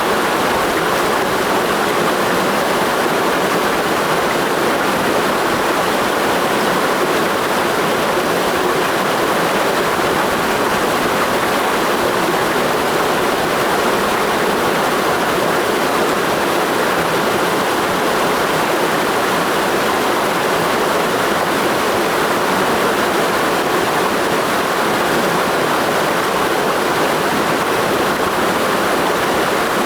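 A clear mountain stream rushing over rocks in a gorge: a steady, unbroken water noise.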